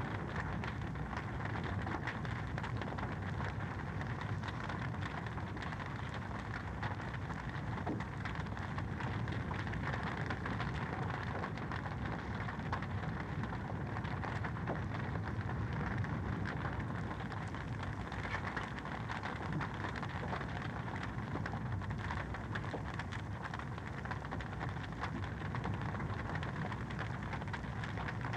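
Fireplace fire crackling: a dense, even run of small crackles over a steady hiss, with no large pops.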